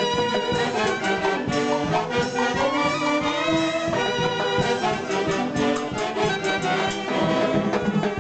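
A live brass band playing a Peruvian Andean festive piece, trumpets and trombones carrying the tune over a steady beat.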